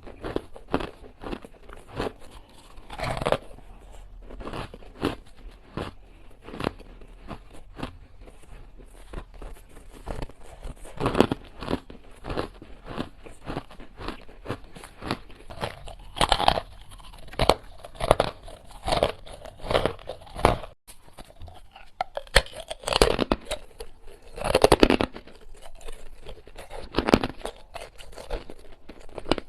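Close-up crunching of hard ice being bitten and chewed: a dense run of sharp cracks and grinding crunches, with louder bites about halfway through and again near the end.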